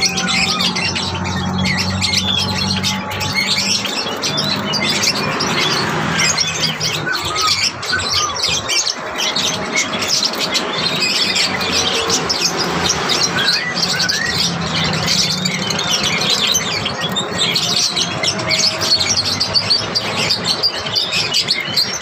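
Caged small birds chirping and twittering busily, many short calls overlapping, over soft background music with low held notes.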